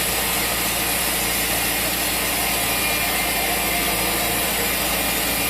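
Sawmill machinery running with a loud, steady, unchanging mechanical noise.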